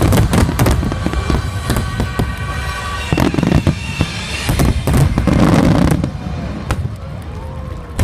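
Large aerial fireworks display: a dense barrage of shell bursts and crackling that thins out to a few scattered bangs about six seconds in.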